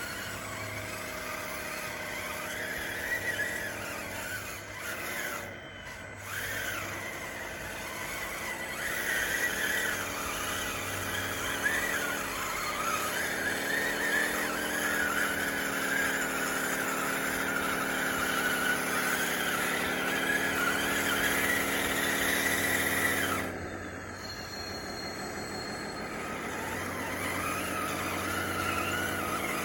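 Motors of a DXR2 RC bulldozer running under load, a whine with squealing whose pitch rises and falls as the throttle changes. It eases off and drops lower about 23 seconds in, then picks up again.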